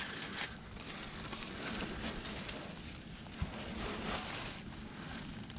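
Faint rustling and scraping with a few scattered light clicks: hands and tools working up inside a truck's starter area.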